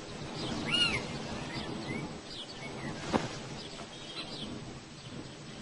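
Birds chirping with short, scattered calls over a faint outdoor background hiss. There is a single sharp click about three seconds in.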